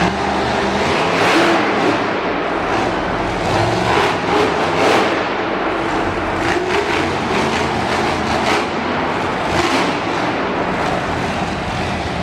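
Monster truck engine running and revving, its pitch rising and falling, over a steady wash of noise.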